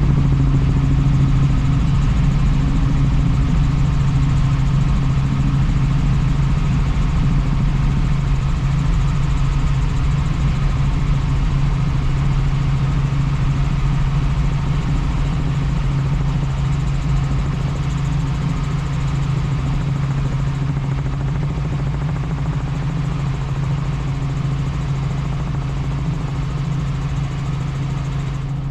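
Helicopter in flight: steady rotor and turbine engine noise, a loud low drone with a fast low beat from the rotor blades, easing off slightly near the end.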